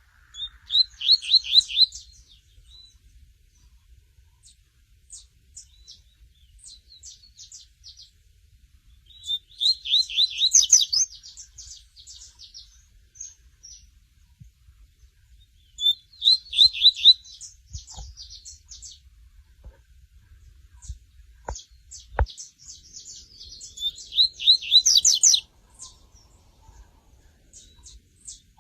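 Double-collared seedeater (coleiro) singing its 'tui tui' song: four loud phrases about seven seconds apart, each opening with a fast run of repeated notes, with softer scattered high chirps in between.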